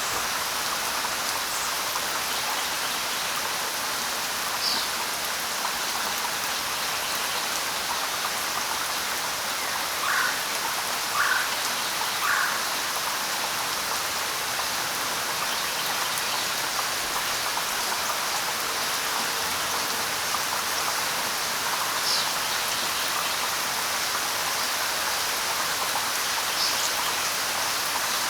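Steady light rain falling on foliage. A few short bird calls come over it: three lower chirps in a row about ten seconds in, and single high chirps now and then.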